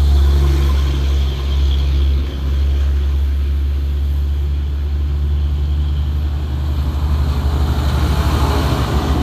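Heavily loaded Hino 500 truck's diesel engine pulling uphill: a loud steady low drone that takes on a fast pulsing beat in the last couple of seconds.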